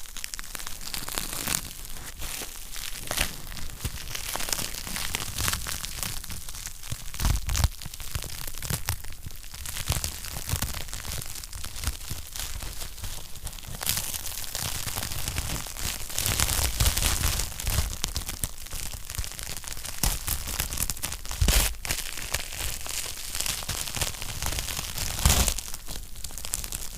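Wood fire in a fireplace crackling steadily, with frequent sharp pops and a few louder snaps scattered through.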